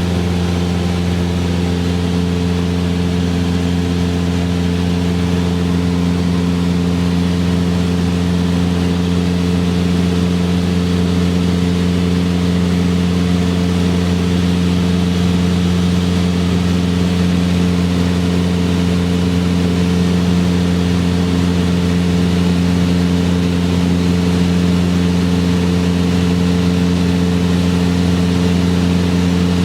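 Cessna 172R's four-cylinder Lycoming engine and propeller droning steadily at constant power in flight.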